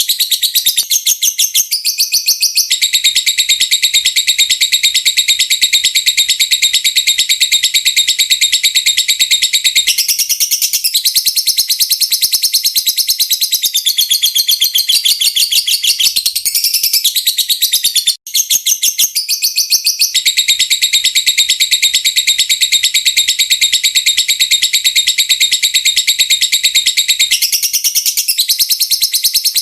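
Lovebird giving the long 'ngetik ngekek' song: a rapid, high-pitched chattering trill held on for many seconds at a stretch, broken only briefly about 18 seconds in. This long unbroken chatter is the style prized in fighter lovebirds.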